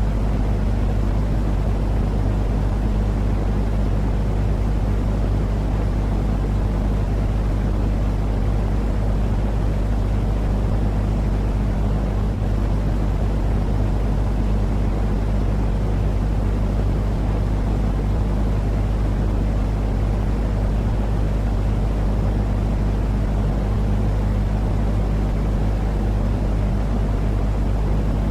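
Steady low rumbling noise for a baby's sleep, unchanging throughout. Most of its weight sits in a deep rumble with a low hum in it, and a softer hiss lies above.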